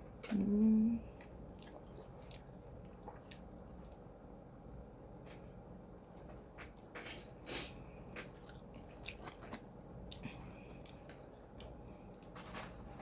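Mouth sounds of someone eating Jollibee spicy fried chicken by hand: scattered crunchy bites and wet chewing. A short hummed "mm" about a second in is the loudest sound.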